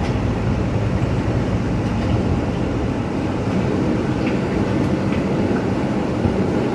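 Steady engine drone and rushing water noise inside a vehicle's cab as it drives through deep floodwater.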